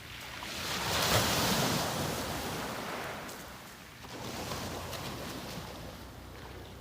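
Sea waves breaking and washing up the beach: one loud surge of surf about a second in that slowly fades, then a smaller wash about four seconds in.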